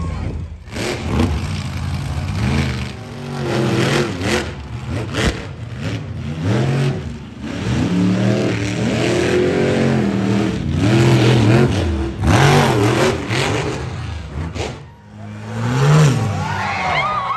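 Monster truck engine revving hard again and again, its pitch climbing and falling in quick swells, with several sharp bangs mixed in.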